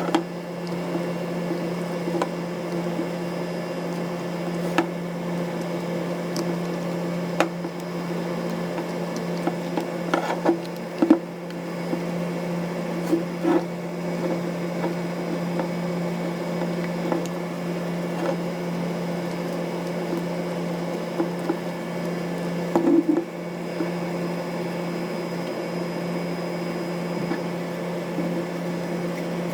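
A steady low hum, with scattered light clicks and taps, a small cluster of them about ten seconds in and again near the end.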